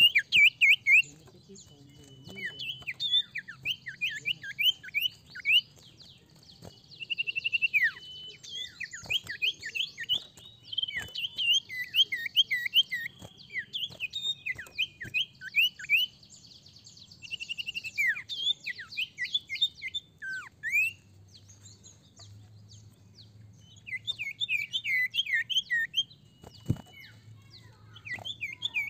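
Common iora (sirtu) singing: bursts of quick, downward-sliding whistled notes, with short held whistles between them and brief pauses between phrases.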